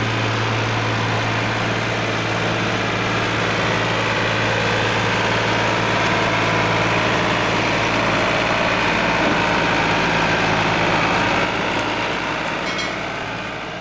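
Farmtrac 45 tractor's diesel engine running steadily with a low drone, fading away in the last couple of seconds.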